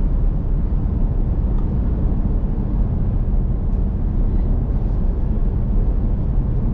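Steady road and engine noise inside a moving vehicle's cabin at cruising speed, a constant low rumble.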